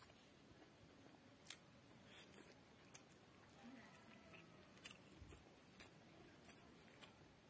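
Near silence with a few faint, short clicks from a person eating with his fingers: quiet chewing and lip smacks.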